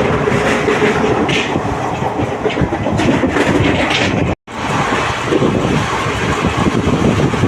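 Passenger train running on the rails: a steady, loud rumble and rattle of the wheels and coach. The sound cuts out for a moment just past halfway, then carries on.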